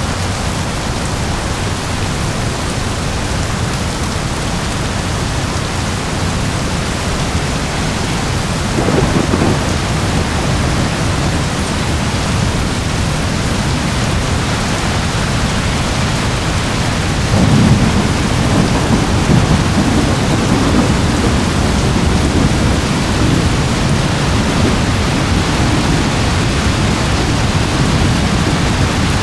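Steady heavy rain with rolling thunder: a low rumble swells about nine seconds in, and a louder, longer roll begins a little past halfway and rumbles on to the end.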